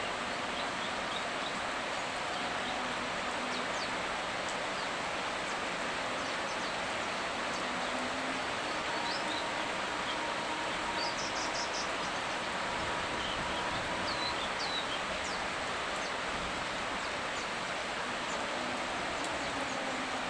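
Steady rain hiss with scattered short bird chirps on top, including a quick run of chirps about eleven seconds in, over a faint low hum.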